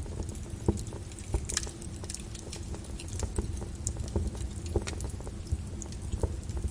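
Flowing lava crackling and popping irregularly over a low, steady rumble.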